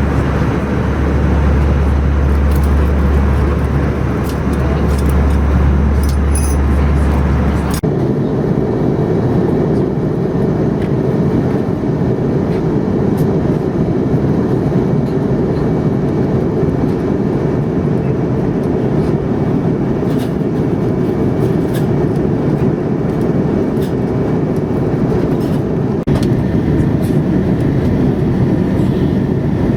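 Steady cabin roar inside an Airbus A320 airliner, with its engines running. The sound changes abruptly about eight seconds in, as a strong low hum gives way to a denser roar with scattered faint clicks.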